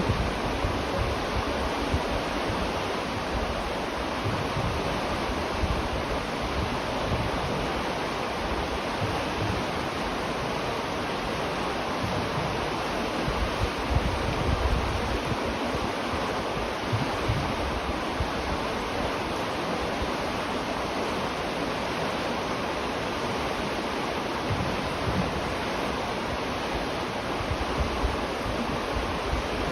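River water flowing: a steady rushing hiss with an uneven low rumble underneath.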